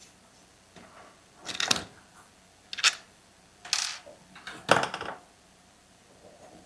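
Small metal parts clinking and clattering onto a hard surface during a chainsaw teardown: four separate clatters, each with a short metallic ring.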